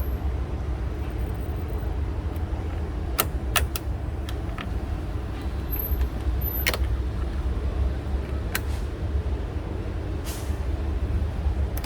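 Hand tools working on hose clamps in a van's engine bay: a handful of sharp clicks and taps over a steady low rumble.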